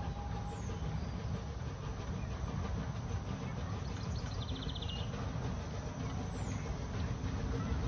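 Narrow-gauge park railway train approaching around a curve: a steady low rumble that grows slightly louder near the end. A bird chirps briefly about four seconds in.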